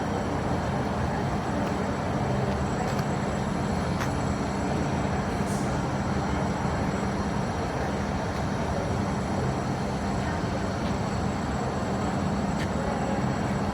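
Train running steadily, a low even rumble with a humming drone underneath.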